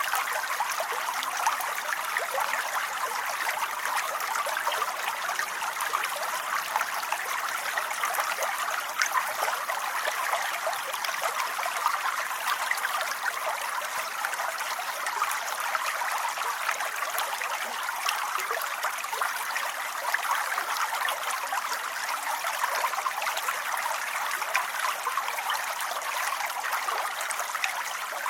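Steady rain falling: an even hiss of many small drops that keeps a constant level throughout.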